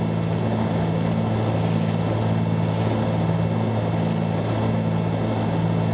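The two six-cylinder Continental piston engines and propellers of a 1974 Cessna 310Q droning steadily in flight, with a slow regular pulsing in the drone.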